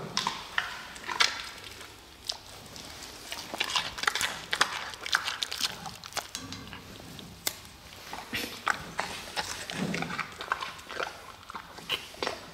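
Giant panda chewing and crunching food, a run of irregular wet crunches and clicks.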